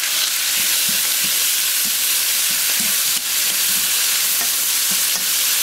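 Raw shrimp and squid sizzling steadily in hot oil in a nonstick wok as they are stirred with chopsticks, with a couple of light taps of the chopsticks against the pan.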